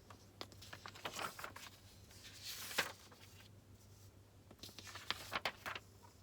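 Paper rustling and a few sharp small clicks, as papers and stationery are handled at a desk, over a faint steady hum.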